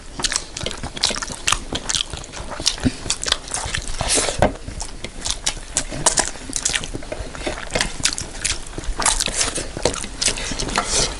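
Close-miked mukbang eating sounds: two people chewing rice and curry eaten by hand, an irregular string of short wet clicks, squelches and lip smacks.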